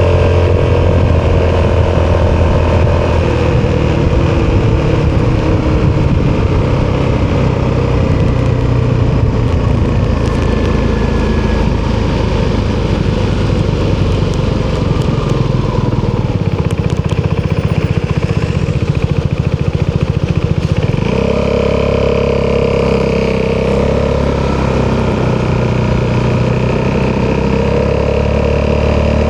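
Italjet Dragster 200's single-cylinder four-stroke engine running through an Akrapovic exhaust. The engine note is steady at first, goes rougher and noisier through the middle, then settles into a clear steady note again about 21 seconds in.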